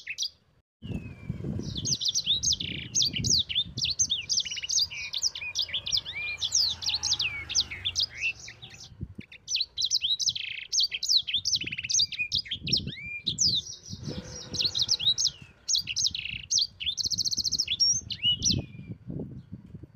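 A sanger bird singing a fast, continuous run of high chirps and steep downward-sweeping notes, used as a training song (masteran) for caged birds. There is a brief rapid trill near the end. The song starts after a short silence about a second in and pauses briefly about halfway through. Low rumbling thumps sound underneath.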